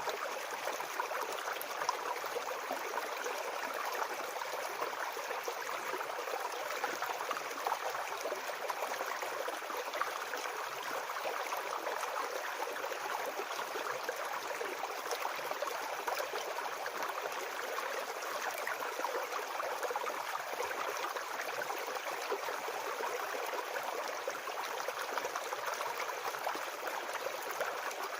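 A shallow brook babbling over stones: a steady rush of flowing water flecked with small splashes and gurgles, unchanging throughout.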